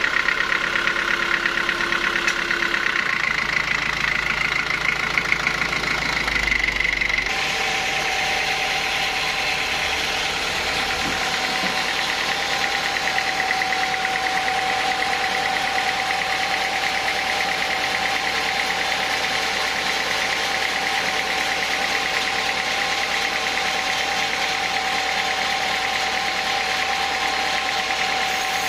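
Sawmill machinery running steadily, an engine-like drone with a steady whine; about seven seconds in the whine drops to a lower, steady tone.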